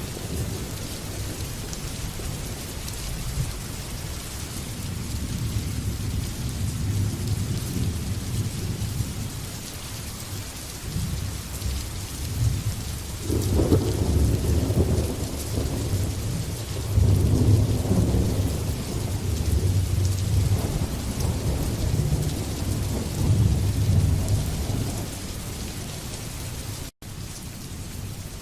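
Steady heavy rain with thunder rumbling low underneath; the thunder swells sharply about halfway and rolls on in several surges before dying away near the end. The audio cuts out for a split second shortly before the end.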